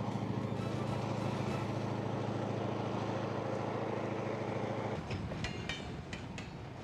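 Freight train of EMD diesel locomotives rolling slowly by, the diesel engines running with a steady hum. About five seconds in the sound changes abruptly to a lighter rumble with a few sharp clicks and clanks from the rolling cars.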